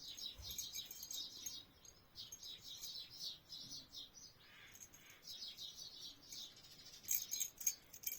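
Small birds chirping and twittering in quick repeated phrases, with a few light clicks near the end.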